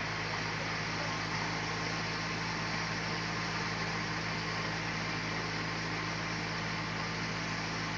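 Sawmill machinery running steadily: an even engine-like hum with a constant hiss over it, with no change in load.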